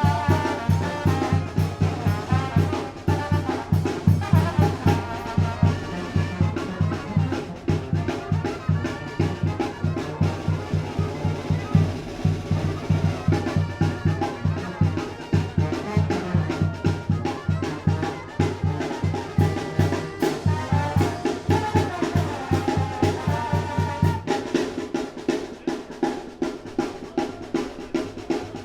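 Tamborazo band playing: trumpets and trombones over a steady beat from the tambora bass drum and snare. Near the end the low brass part drops out while the drums keep going.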